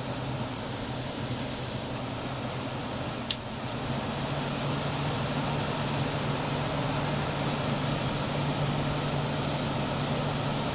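Window air conditioner running in fan-only mode, compressor off: a steady blower rush over a low hum. There is a sharp click about three seconds in, after which it runs slightly louder.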